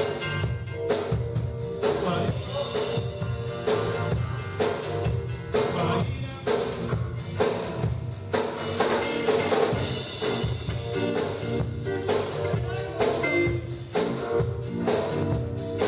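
Live band playing with a drum kit keeping a steady beat.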